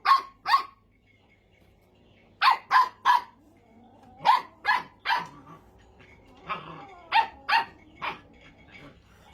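Puppy barking in short, high-pitched yaps, in quick runs of two or three with pauses between, about a dozen in all.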